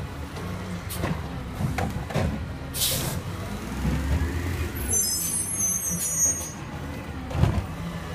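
Garbage truck's diesel engine running, with a few knocks, a short hiss of air about three seconds in, and a high squeal for about a second near the middle.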